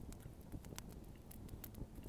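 Wood bonfire crackling: small irregular pops and snaps over a low steady rumble.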